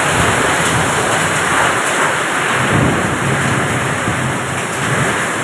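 Heavy rain lashing down in strong wind: a loud, steady, dense rush of noise.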